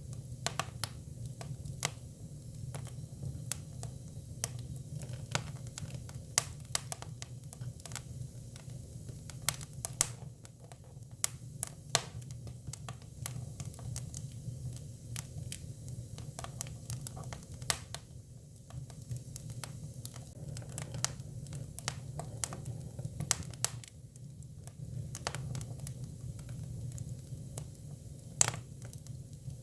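Hinoki (Japanese cypress) firewood burning, crackling with irregular sharp pops and snaps over a steady low rumble.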